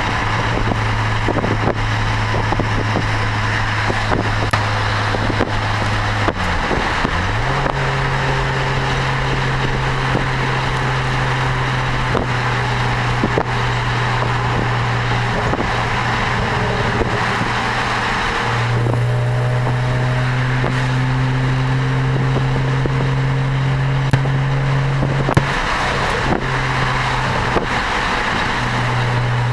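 BMW 335i turbocharged 3.0-litre straight-six heard through an Eisenmann Race exhaust at a steady cruise: a low, even exhaust drone over tyre and wind noise. About six seconds in the drone briefly dips in pitch, then settles a little higher, and it shifts slightly again later as the speed changes.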